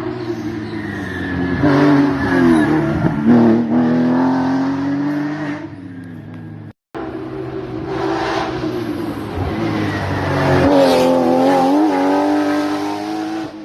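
Rally cars driven hard on a stage, engines revving up and dropping in pitch through gear changes as they pass. There are two separate passes, split by an abrupt cut about seven seconds in.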